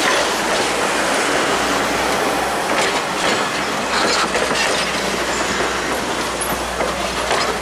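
Passenger coaches of a train rolling past close by: a steady rumble of steel wheels on the track, with sharp clicks as the wheels cross the rail joints.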